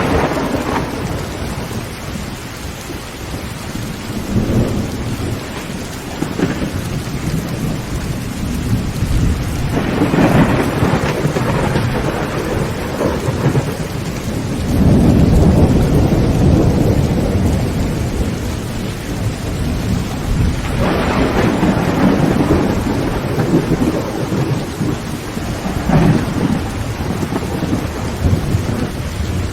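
Heavy rain falling steadily on a tin roof, with rolling thunder rumbling in several long swells, the loudest about fifteen seconds in, and a sharper crack of thunder near the end.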